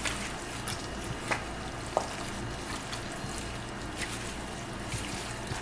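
Raw chicken thighs being mixed by hand in a wet vinegar-based marinade: soft, scattered squelches and small clicks over a steady low hum.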